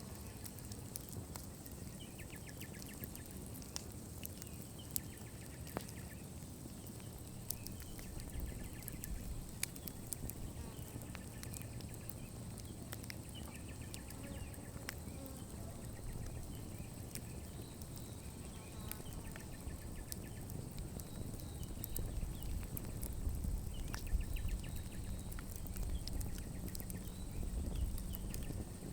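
Wood fire burning, with scattered sharp crackles and pops over a low rumble that grows louder in the last third. Short chirping trills come in the background now and then.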